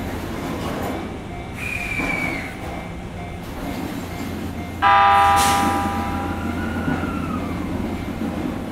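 E257 series electric train standing at the platform with a steady low hum from its equipment. About five seconds in, a short loud horn blast sounds and fades away.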